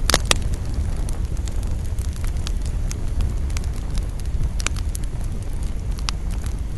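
Campfire of burning wood crackling, with sharp pops scattered throughout, two loud pops in quick succession right at the start, over a steady low rumble.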